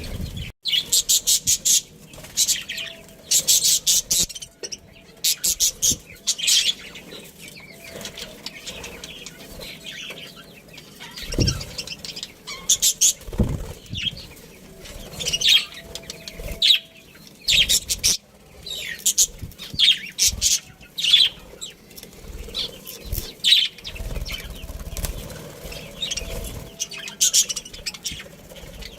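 A colony of budgerigars chirping, in short rapid runs of high chirps again and again, with two dull thumps near the middle.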